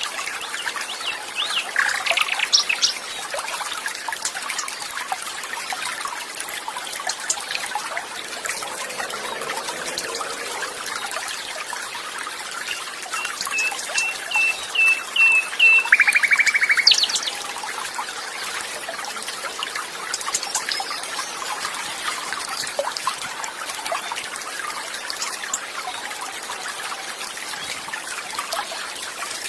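Flowing water trickling steadily, with wild birds chirping over it: a few calls about two seconds in, and a string of repeated high notes around the middle that ends in a quick trill.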